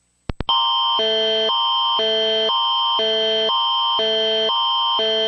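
Emergency alert attention signal, likely the Canadian Alert Ready tone: a loud, harsh electronic alarm made of several fixed pitches that switches back and forth every half second. It marks the start of an emergency broadcast alert. Two very short blips come just before it starts.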